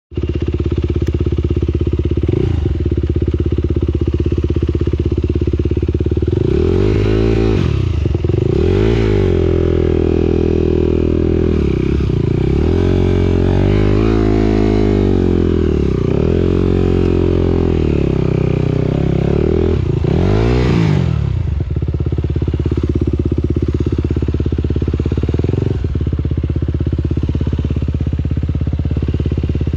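Motocross motorcycle engine running loud and close, steady at first; from about six seconds in the revs rise and fall several times, then settle back to a steady note for the last third.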